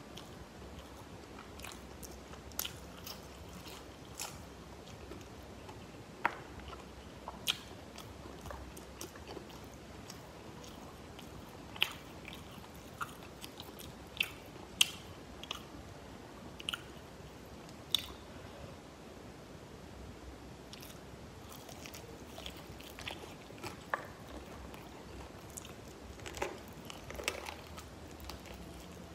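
Close-miked chewing and biting of fried chicken wings, with sharp crunches at irregular intervals throughout.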